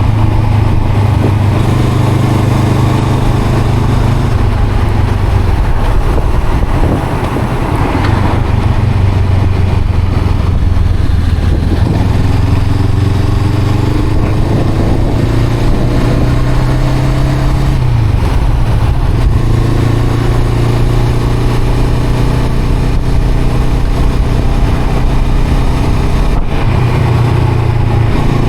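Honda CL500's parallel-twin engine and exhaust running under way, engine speed rising and falling with the throttle, with a brief drop about seven seconds in and pitch climbing twice in the second half.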